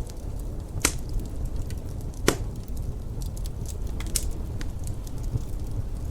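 Wood fire crackling in a fireplace: a steady scatter of small crackles with two sharper pops, about one and two seconds in, over a steady low rumble.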